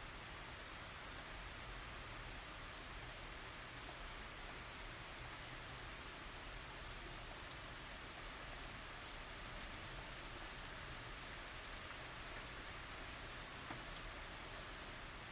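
Steady tropical rain falling, an even hiss broken by many small drop ticks.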